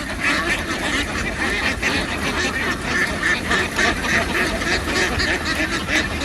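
A large flock of domestic ducks quacking continuously, many calls overlapping at a steady level.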